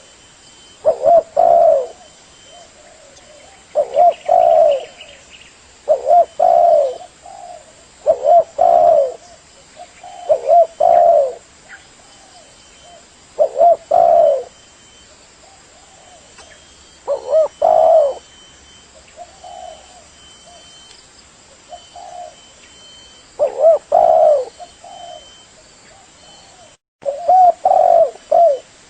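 Spotted dove cooing: a run of repeated low coo phrases, one every two to three seconds, a few of them softer near the middle.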